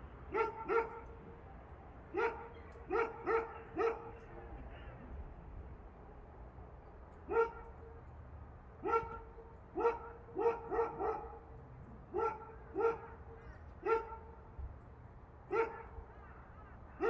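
A dog barking repeatedly: short, evenly pitched barks, singly or in quick runs of two to four, with pauses of a second or more between runs.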